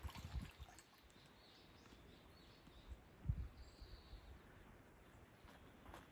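Faint bird calls over a quiet background, with a few short low thumps, the loudest about three seconds in.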